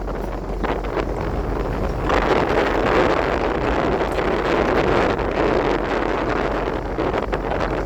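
Wind buffeting the microphone aboard a fishing boat, over the boat engine's steady low hum. The wind noise gets louder and brighter about two seconds in.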